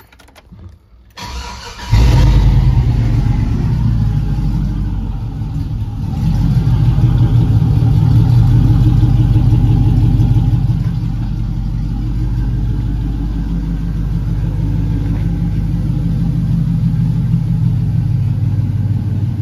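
The LS V8 in an OBS Chevy truck fires about two seconds in and runs loud through shorty headers and an exhaust that is basically straight pipe with no muffler. It runs louder for a few seconds, then settles into a steady idle.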